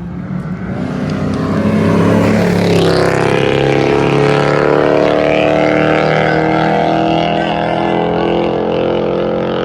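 Car engines accelerating hard in a street race. Their pitch rises over the first two seconds, then holds high with a slow fall, loud throughout.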